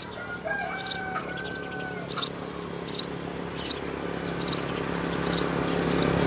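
House sparrow chirping, one short high chirp about every three quarters of a second.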